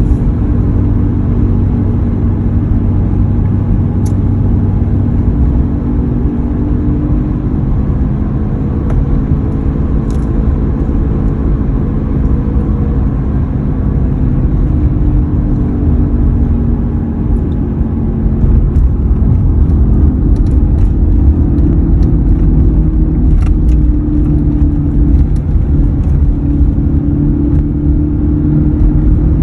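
2003 Ford F-150 on the move: road rumble with a steady low hum, the noise the owner is chasing. The hum's pitch slowly drifts lower and then rises again, and it grows louder about two-thirds of the way through, as if it follows road speed.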